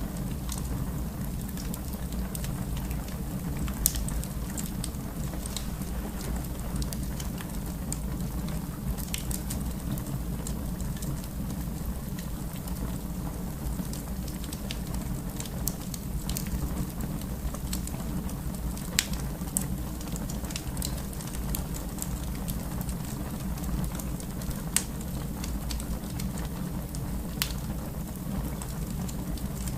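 Wood fire burning in a fireplace: a steady low rumble of flames with scattered sharp crackles and pops every few seconds.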